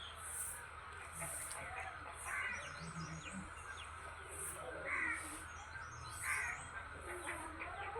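Birds calling at dawn: a loud call repeats three or four times a second or two apart, over softer chirping and a high, repeated call.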